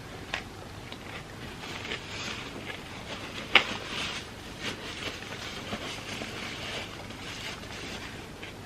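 Close-up chewing of crispy fried food: crackly crunches and small clicks, with one sharp crunch about three and a half seconds in.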